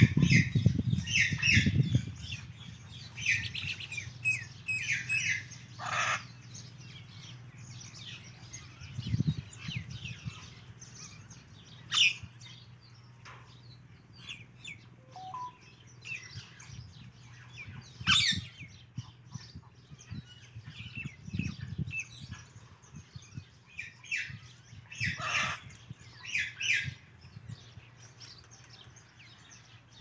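Birds chirping: clusters of short high chirps, with four sharp, louder calls spaced several seconds apart. A few low rumbles come through, the strongest at the very start.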